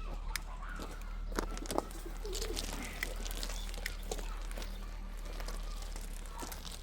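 Birds calling, with cooing like a dove's, among scattered sharp clicks and knocks over a steady low hum.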